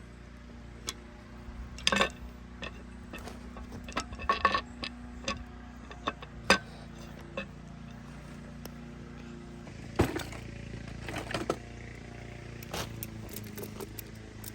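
Scattered sharp metallic clinks and knocks of tools and engine parts being handled, the loudest about 2, 4.5, 6.5 and 10 seconds in, over a steady low hum.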